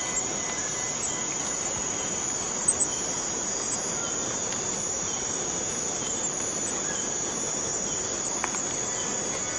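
Cicadas droning in chorus, a steady high-pitched buzz that holds without a break, with two brief ticks about three seconds in.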